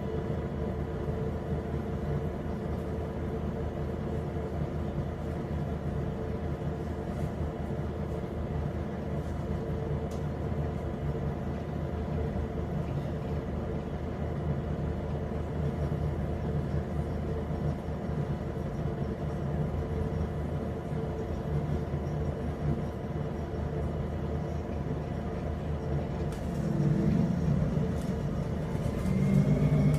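Interior noise of a Scania CN270UB city bus on the move: its 9-litre five-cylinder CNG engine running steadily with road rumble. It grows louder near the end, with a short rising whine.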